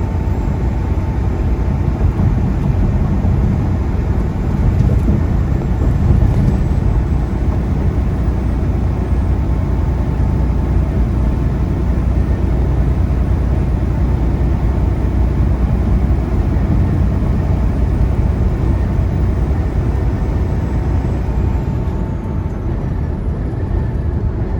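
Steady engine and road noise inside a semi truck's cab while driving on the highway: a deep, even rumble with a faint steady whine above it.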